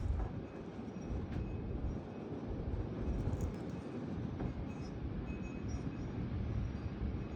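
Gusty thunderstorm wind rushing and buffeting the microphone: a continuous low rumble that swells and eases.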